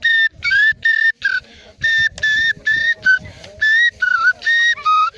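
A high whistle blown in quick short notes, about three or four a second, mostly on one pitch with a few slightly lower, bending notes.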